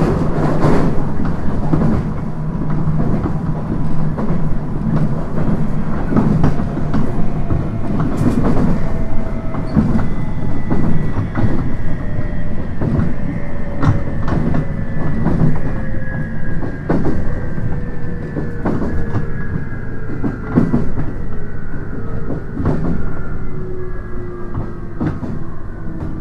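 JR 719 series electric train running, heard from inside the car: wheels knock over rail joints every second or two under a steady rumble, and a gear-and-motor whine falls slowly in pitch as the train slows. This unit is known as an odd-noise car.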